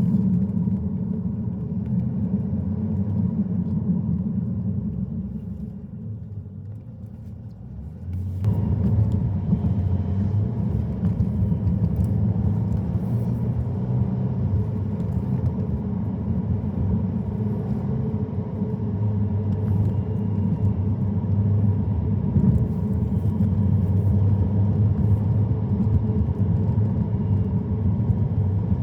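Car driving on a road: a steady low rumble of engine and tyre noise. It quietens from about five seconds in and comes back abruptly about eight seconds in.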